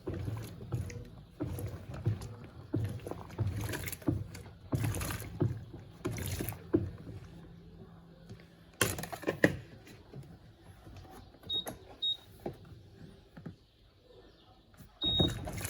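Electrolux LTC07 top-loading washing machine agitating a load, water sloshing in irregular surges as the agitator swings back and forth; the surging stops about nine seconds in and turns quieter.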